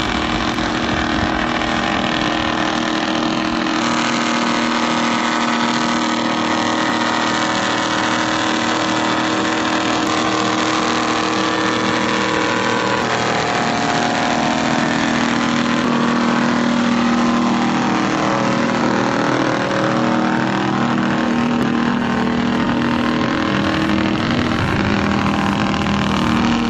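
A heavy vehicle's engine running steadily under load, its pitch wandering up and down in the second half.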